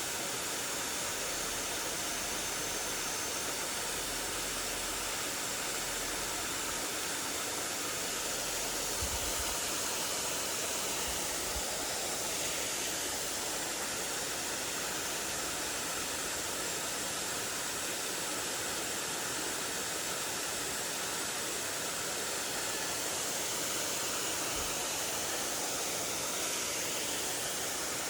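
Mountain stream water rushing over rocks: a steady, unbroken wash.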